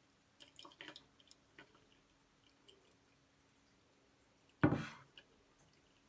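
Coffee trickling and dripping through a paper drip-bag filter into a glass server, a few light drips in the first second and a half. Nearly five seconds in, a stainless-steel gooseneck kettle is set down on the table with a single knock, the loudest sound.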